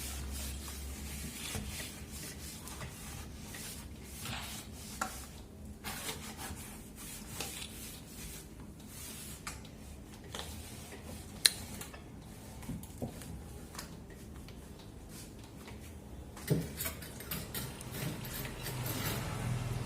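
Cloth rubbing and wiping over the fridge's surfaces, with scattered light knocks and one sharp click about eleven seconds in.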